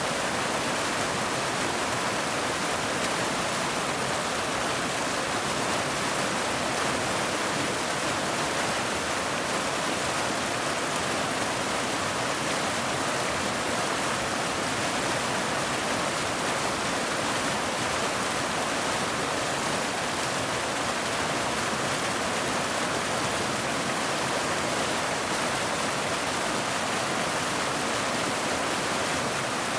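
Steady rain: a dense, even hiss with no single drops or gusts standing out.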